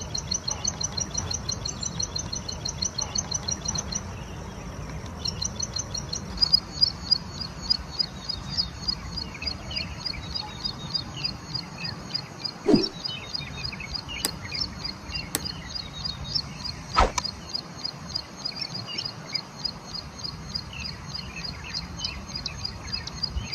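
Prinia (ciblek) singing a long, fast series of evenly repeated high chirps. The song breaks off briefly about four seconds in, then resumes. Two sharp clicks come near the middle, over a steady low rumble.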